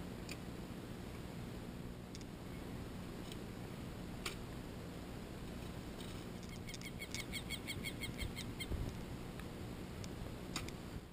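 Faint open-air ambience with a few soft clicks. About two thirds of the way in, a bird calls a quick series of short chirps, about five a second, for roughly two seconds.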